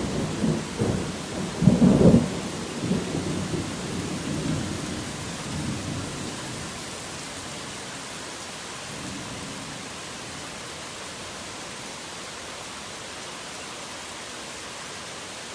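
Heavy rain falling steadily, with a peal of thunder rumbling loudly at first, strongest about two seconds in, then fading away over the next few seconds. A fainter rumble comes about nine seconds in, and after that only the steady rain.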